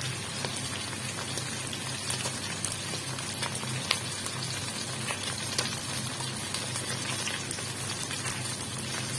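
Cornstarch-coated chicken livers sizzling in hot oil in a stainless steel wok: a steady frying hiss with scattered small pops, one louder pop about four seconds in.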